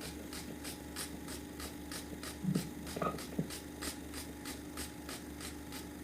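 Steady low hum with a faint, even ticking of about three ticks a second. A few brief faint sounds come in the middle.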